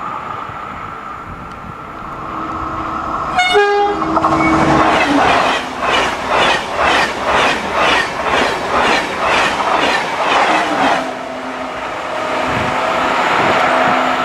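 Passenger train passing at speed over a level crossing: a short horn blast about three and a half seconds in, then the wheels clacking over the crossing in a steady rhythm of about two beats a second for several seconds before the sound eases off.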